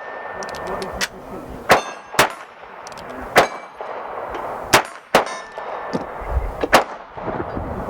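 Gunfire on an outdoor firing range: about seven sharp cracks at irregular intervals, with a metallic ringing to them.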